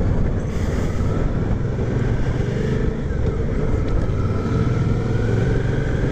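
V-twin motorcycle engine running steadily under way at street speed.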